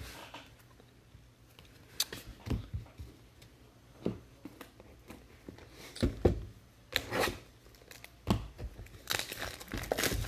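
Trading-card pack wrappers being torn open and crinkled, with scattered crackles and rustles as cards are handled.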